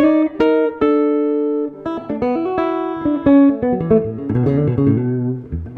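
Steinberger headless electric guitar played clean: a few chords struck and left to ring, then a quicker run of short notes and chords.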